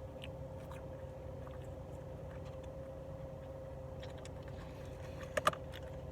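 Light clicks and taps of eating utensils over a steady background hum, with two sharp clicks about five and a half seconds in.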